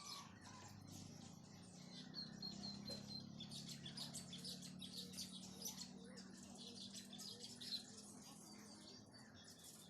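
Small birds chirping and twittering, with many short high calls, over a faint steady low hum.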